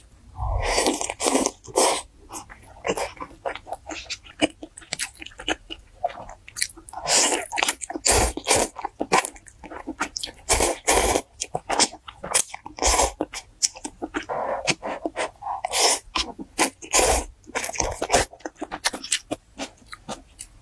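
Close-miked eating: a person biting and chewing food, with crunching and wet mouth clicks coming in dense, irregular bursts.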